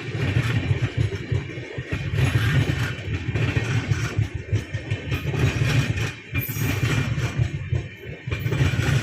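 Express train running past on the track: a loud, uneven rumble of the coaches going by that swells and dips, with no horn.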